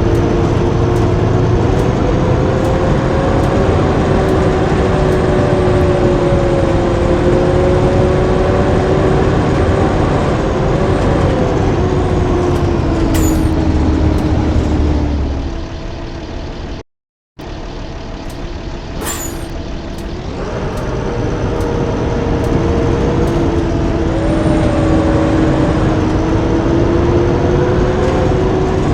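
Blue Bird school bus engine running under way, with a drivetrain whine that rises and falls as speed changes, and a few short high hisses. About halfway through the sound drops off and cuts out for a moment before the engine noise builds again.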